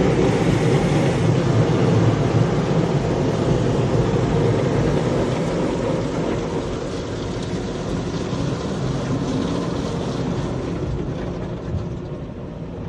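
Car wash machinery running: a steady rushing noise that eases off slightly near the end.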